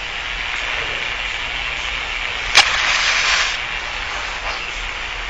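A match struck about halfway through: one sharp scrape, then about a second of hiss as it flares. Steady film hiss and low hum run underneath.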